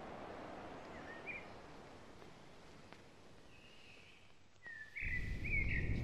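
Outdoor ambience with small birds chirping a few short calls, over a soft steady hiss; a low rumble comes in suddenly about five seconds in.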